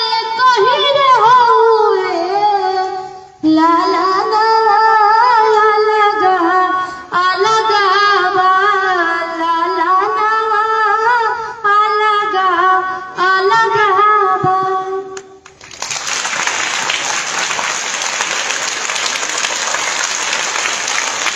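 A young girl singing a Bhojpuri song in phrases, her voice high and carrying. About fifteen seconds in she stops and applause breaks out and runs on.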